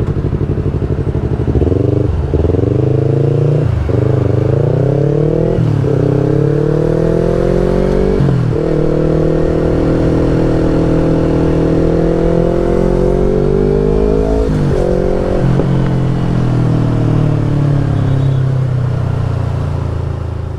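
Yamaha R25 parallel-twin engine through a Brave aftermarket exhaust, accelerating through the gears: the pitch climbs and drops back at four upshifts in the first nine seconds, then holds a long, slowly rising pull. Two more quick shifts come about fifteen seconds in, after which it settles into a steady cruise.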